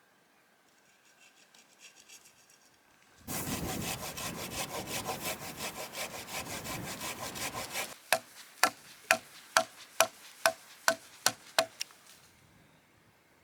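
A hand saw cutting through wood in quick back-and-forth strokes for about four seconds, starting about three seconds in. Then about ten sharp wooden knocks follow in a steady rhythm, about two a second.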